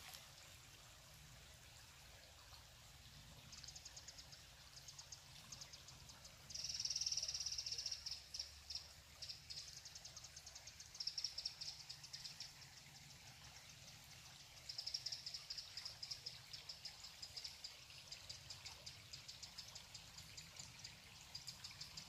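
A small songbird calling in series of rapid, high-pitched ticking trills that come and go, loudest about seven seconds in, over a faint steady background of woodland and running water.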